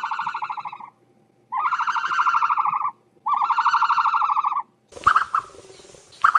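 Three long, loud, buzzing animal calls, each about a second and a half, with a rapid pulse through each; then a couple of short, sharp calls over a hiss near the end.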